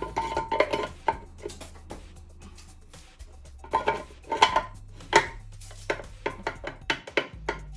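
Metal automatic-transmission parts of a Mercedes 722.9 clinking and knocking against each other as a clutch assembly is handled and fitted back into the transmission casing: repeated sharp metallic clinks in several clusters, with a brief ring at the start.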